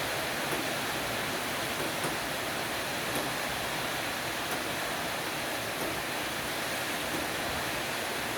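Heavy rain falling steadily on a porch roof: an even hiss, with faint light ticks every second or so.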